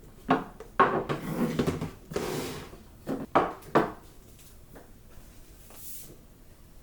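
Hard household objects being handled and set down: a quick series of knocks and clatters over the first four seconds, then quiet handling.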